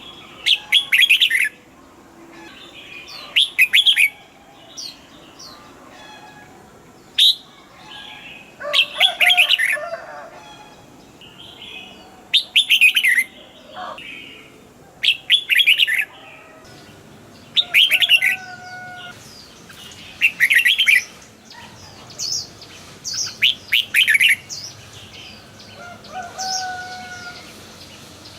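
Red-whiskered bulbul singing: short, loud, warbling phrases repeated every two to three seconds, with fainter chirps in between.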